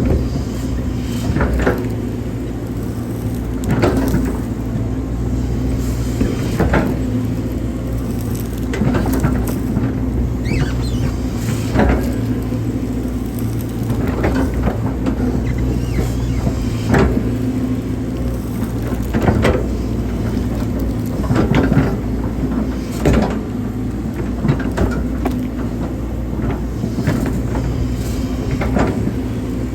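Hydraulic excavator's diesel engine running steadily under load, with irregular knocks and clanks from the digging, about one every one to two seconds.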